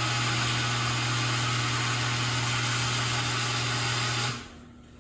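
Genie garage door opener motor running with a steady hum, then cutting off abruptly near the end.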